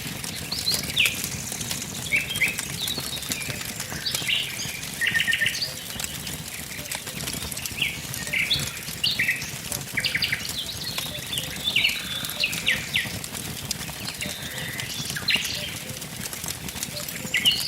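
Wood fire crackling, with small songbirds chirping throughout in quick runs of short, high notes.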